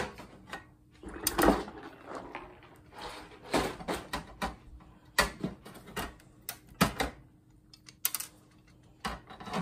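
Capacitors being stripped off a monitor's circuit board: irregular sharp clicks, snaps and small knocks of metal and board.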